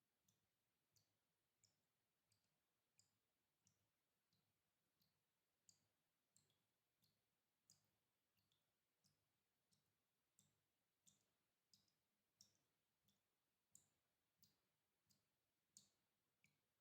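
Water dripping in a steady rhythm, about three drops every two seconds. Each drop is a faint, short, high plink, and the pitch and loudness vary a little from drop to drop.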